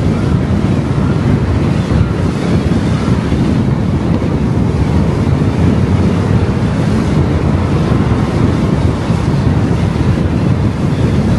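Steady, loud rumble of wind and road noise from a car driving along at speed, heaviest in the low end, with wind buffeting the microphone.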